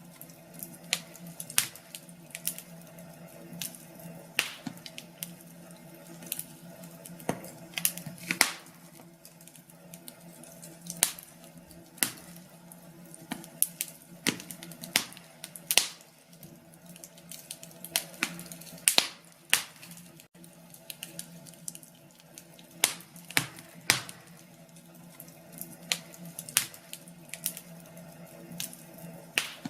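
Wood fire crackling in a fireplace: irregular sharp pops and snaps, one to a few a second and of varying loudness, over a steady low background.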